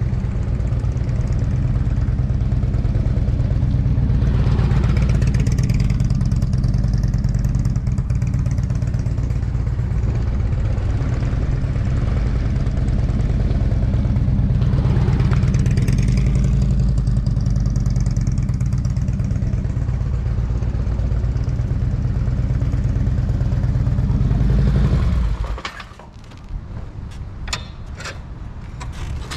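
An engine running steadily, with two swells of passing noise, then shut off about 25 seconds in; a few clicks and rattles follow.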